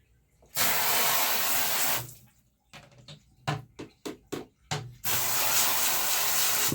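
Running water rinsing a birdcage part in a bathtub, in two rushes of about a second and a half each, with short splashes and knocks in between.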